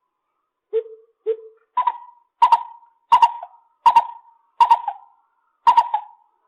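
Lesser coucal calling: two low hoots, then a series of six higher, sharper notes repeated at about one every two-thirds of a second.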